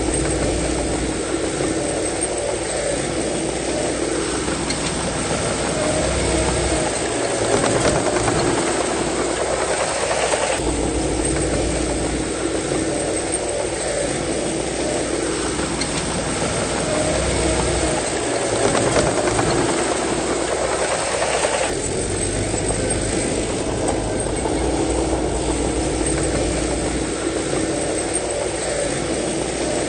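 Heavy diesel earthmoving machinery running under load, the engine's pitch rising and falling in repeated working cycles, with abrupt changes in the sound about a third and two-thirds of the way through.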